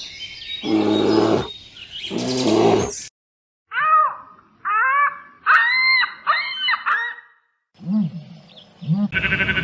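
A run of different animal calls: two loud rough calls, then after a short pause about six short high-pitched calls that rise and fall, then two brief low grunts, and near the end a new rapid pulsing call starts.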